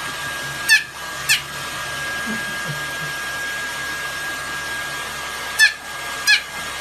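A steady whirring, blowing machine noise with a thin high whine. It is broken by four short, high, falling squeaks in two pairs: two about a second in and two near the end.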